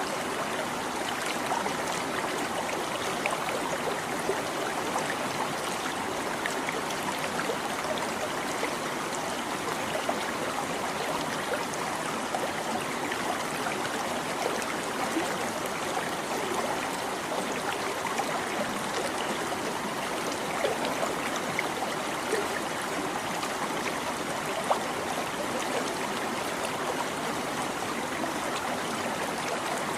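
A small stream babbling steadily, with a constant rush of flowing water flecked with tiny trickling splashes.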